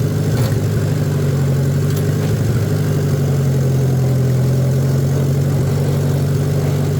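Tractor engine running at a steady speed, an even low hum with no change in revs.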